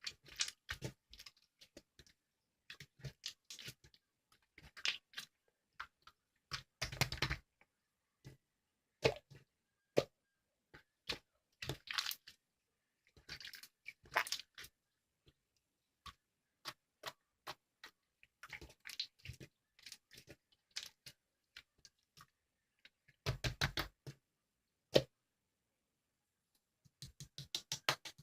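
Slime being pressed, poked and stretched by hand, making irregular runs of small sharp clicks and crackles with short pauses between them.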